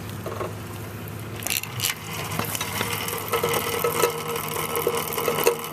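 Star Trac Spinner NXT spin bike's chain drivetrain running with the flywheel turning, getting louder about two seconds in, with irregular clicking over a steady running sound. The noise comes from the chain dragging on and striking the metal finger guard tunnel it runs through.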